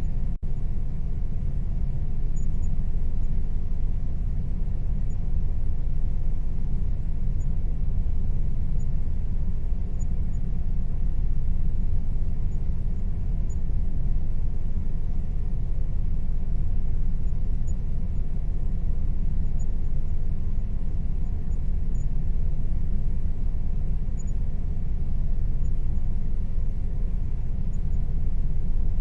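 Air conditioner running steadily: a constant low hum with a faint steady tone above it, dropping out for an instant about half a second in.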